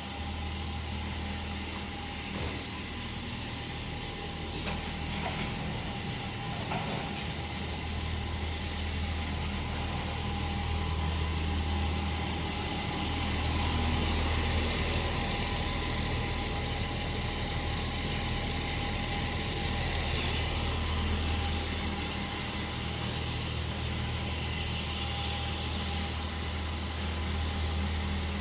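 A machine running with a steady low hum and a constant mechanical noise, swelling slightly midway.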